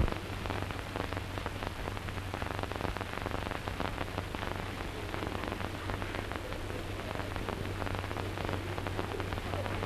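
Crackle and hiss of an old optical film soundtrack, with a steady low hum underneath.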